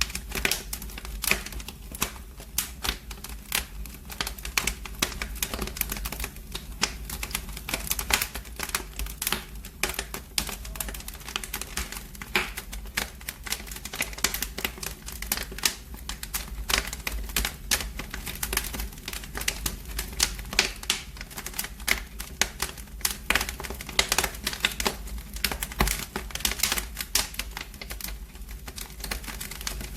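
Wood fire burning in a fireplace, crackling and popping with dense, irregular sharp snaps over a steady low rumble.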